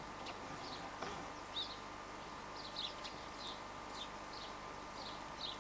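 Small birds chirping: short, high, repeated calls a few times a second over faint outdoor hiss.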